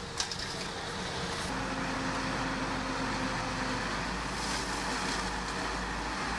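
Diesel engine of heavy earthmoving machinery running steadily; it grows heavier and deeper about a second and a half in.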